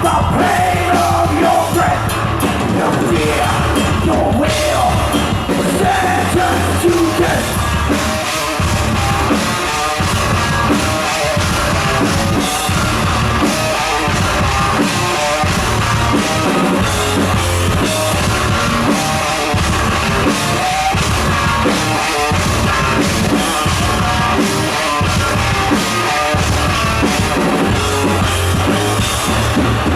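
Thrash metal band playing live, loud: distorted electric guitars, bass and fast drumming.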